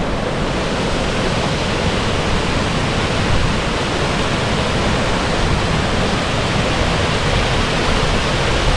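Steady rushing of a waterfall, an even roar of falling water, with wind buffeting the microphone as a low rumble.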